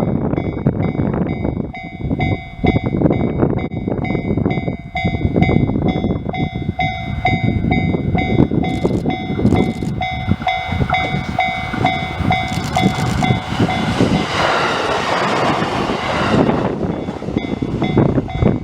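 A Shinano Railway SR1 series electric train passing, with a steady rumble and rail noise throughout. A rapidly repeating ringing tone sounds over it, and a louder rushing swell comes near the end.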